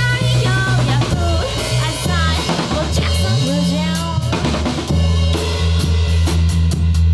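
Live rock band playing: drum kit with kick, snare and rimshots over electric bass and guitar, with a wavering melodic line in the first half. The bass slides upward about three seconds in, and the drums and cymbals grow busier in the second half.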